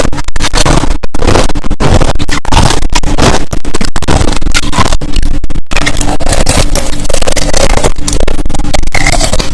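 Crushed ice being chewed right at the microphone: a dense, loud run of crunches with short gaps between bites.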